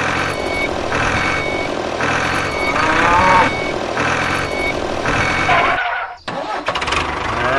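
A vehicle reversing alarm beeps about once a second over a steady engine rumble. A cow moos about three seconds in. The sound cuts out briefly around six seconds in, and another cow-like call follows near the end.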